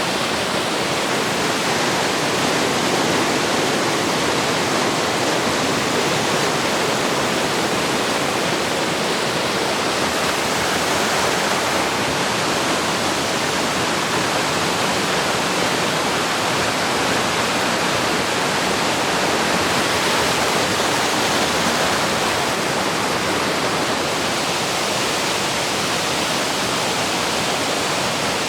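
Steady, loud rush of water falling over a waterfall, an even dense roar with no breaks.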